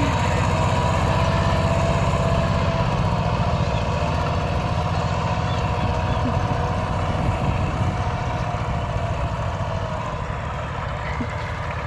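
Tractor engine running steadily with an even firing beat, slowly getting quieter.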